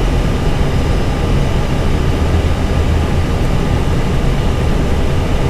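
Steady cockpit noise of an Airbus A320 in flight on approach: a constant rush of air and hum, heaviest in the low rumble, with faint steady tones above it.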